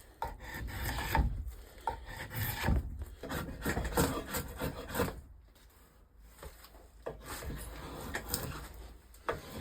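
A hand tool scraping and shaving wood in a run of repeated strokes while a new wooden axe shaft is shaped, with a short pause about halfway before the strokes resume.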